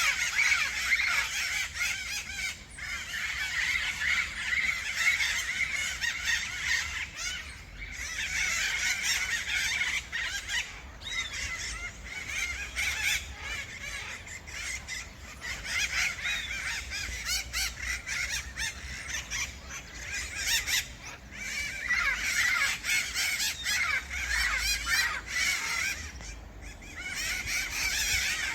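A flock of parrots squawking and chattering, many harsh calls overlapping, the chorus swelling and fading in waves.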